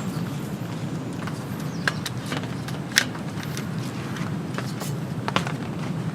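Gentle rain falling, with scattered sharp drops and drips tapping over a steady low rush; three drips stand out, about two, three and five seconds in.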